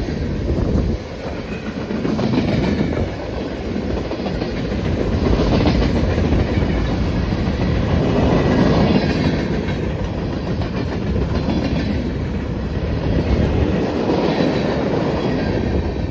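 A train's cars rolling past, a steady heavy rumble of wheels on rail with a clickety-clack over the rail joints.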